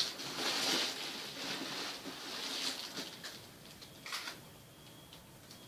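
Rustling and handling noise, with a sharp click about four seconds in, from hands moving netbook parts and small screws around while searching for a spare screw.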